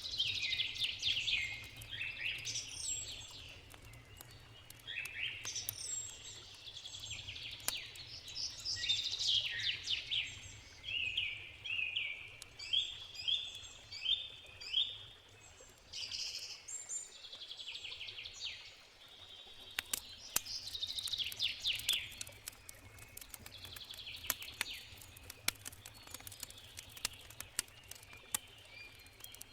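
Songbirds singing, in repeated quick phrases of falling chirps, over a low steady rush of water. About two-thirds of the way in, sharp campfire crackles begin and run on under the birdsong.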